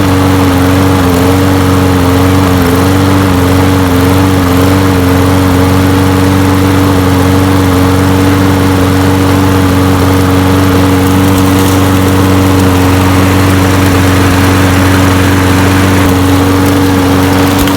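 Snapper self-propelled walk-behind mower engine running steadily at full speed just after catching, with a slight unevenness in speed for the first few seconds. With its clogged main jet cleaned it runs pretty well, though it would only start with starting fluid.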